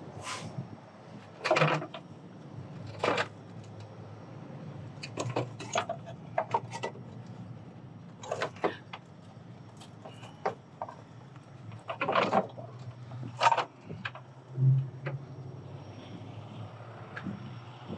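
Heavy tow chains clanking and rattling in separate bursts as they are handled and hooked to the truck frame, over a truck engine running steadily.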